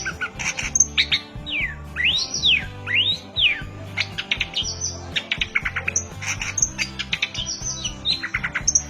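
Long-tailed shrike (cendet) singing: fast, dense chattering notes with a few long whistles that sweep down and up in pitch in the first half. Background music with a steady low beat plays under it.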